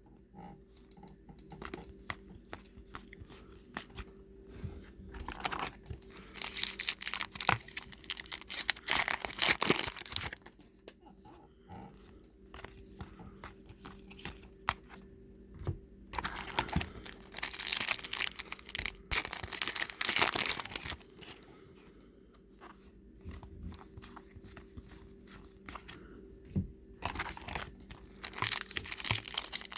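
Trading card packs being torn open and their wrappers crinkled, with cards handled in between, in irregular bursts of rustling and tearing with short quiet gaps.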